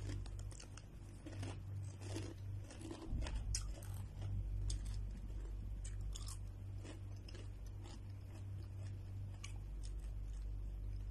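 Doritos tortilla chips being chewed close to the microphone: irregular crisp crunches, over a steady low hum.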